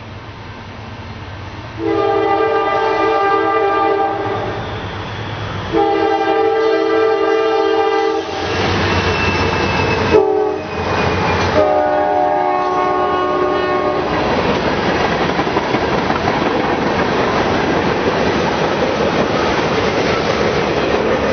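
Freight locomotive's multi-chime air horn sounding the grade-crossing signal, long, long, short, long, as the train closes in. Under and after the last blast, the steady rush and clatter of the locomotive and cars rolling past.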